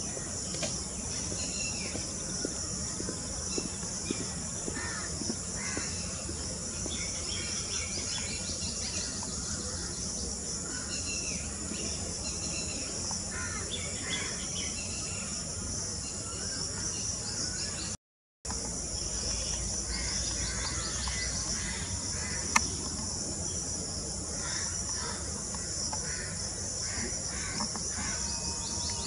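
Outdoor ambience of a steady, high-pitched insect drone with many short, scattered bird calls over it. The sound drops out briefly a little past the middle, and there is one sharp click later on.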